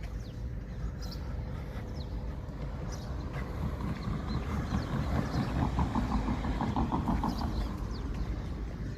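A motor vehicle passing, growing louder about four seconds in and then easing off, over a steady low rumble, with a few short bird chirps.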